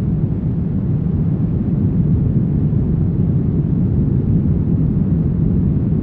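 Brown noise: a steady, deep rumbling hiss with its weight in the low end, unchanging throughout.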